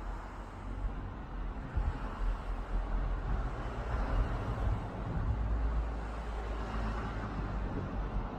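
Steady low rumbling background noise with a fainter haze above it, rising and falling a little but with no distinct single event.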